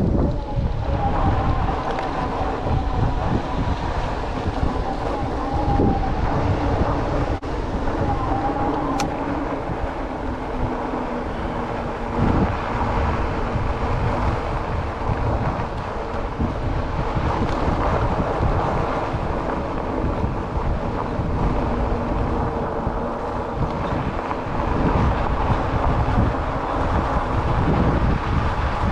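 Wind buffeting the microphone of a chest-mounted GoPro on a moving e-bike, a steady fluttering rumble, with a faint wavering whine in the first several seconds.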